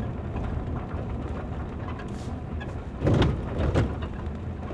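Car cabin noise while driving slowly: steady low engine and road rumble, with a short burst of loud knocking and rattling about three seconds in.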